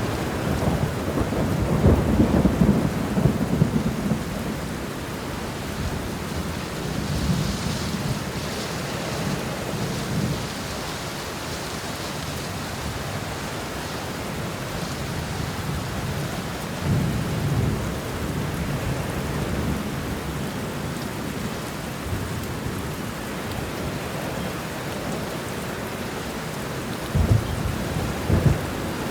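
Steady heavy rain with thunder rumbling in the low end, in several rolling swells: the strongest about two seconds in, others around eight and seventeen seconds, and a sharper crack-and-rumble near the end.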